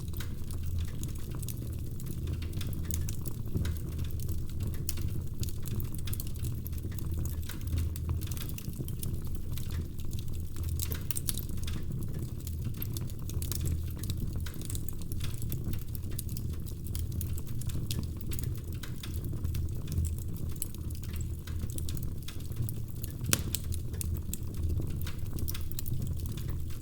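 Wood fire crackling in a fireplace: burning logs give off frequent small, sharp pops over a steady low rumble of flames, with one louder pop near the end.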